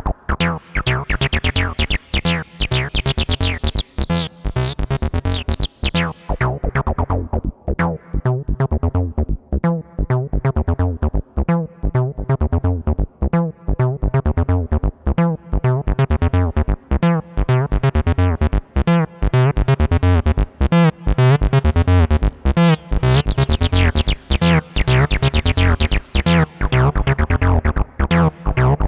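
Behringer TD-3-MO acid bass synth running a fast, repeating sequence of short notes. Its resonant filter is swept open and shut twice, so the line turns bright and buzzy and then dark again.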